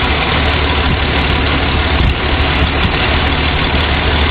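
Dodge flathead straight-six engine idling steadily, running while its valve clearances are adjusted.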